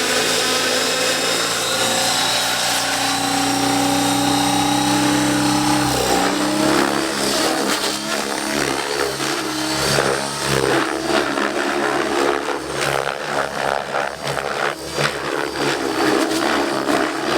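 Radio-controlled helicopter flying aerobatics. Its motor and rotor hold a steady pitch for about six seconds, then rise and fall quickly in rapid surges as the manoeuvres begin.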